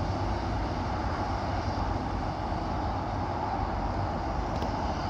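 A pair of coupled Class 185 diesel multiple units pulling away from the station, a steady rumble of diesel engines and wheels on the rails.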